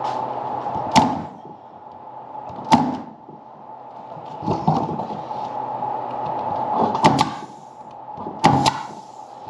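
Staple gun driving staples into an oak bee frame: a sharp snap about a second in, another near three seconds, then two quick pairs of snaps later on, with the frame being handled between shots over a steady background hum.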